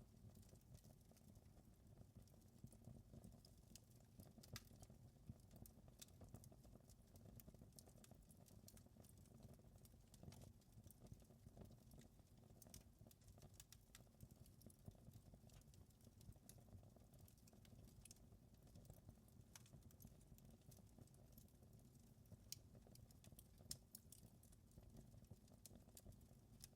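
Faint wood fire crackling: irregular small pops and snaps over a low, steady rumble of the flames.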